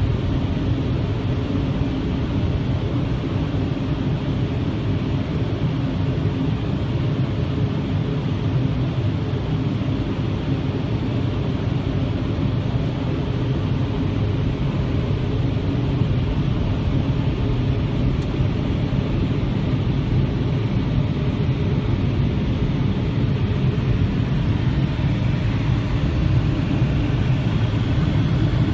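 Touch-free automatic car wash (Futura Revolution) running around the car, heard from inside the cabin: a steady low rumble with a hiss over it, growing a little louder near the end.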